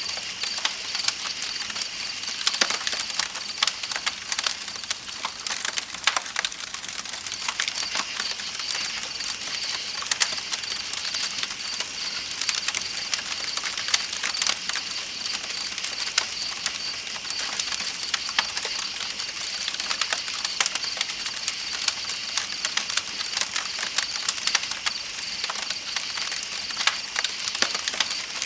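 Campfire crackling with frequent sharp pops, over the steady pulsing chirp of night insects and the hiss of flowing river water.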